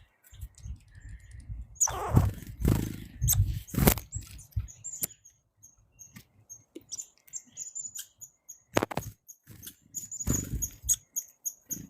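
Red squirrel giving a long series of short, high chirps, several a second, with loud rustling bursts about two to four seconds in and again near the end.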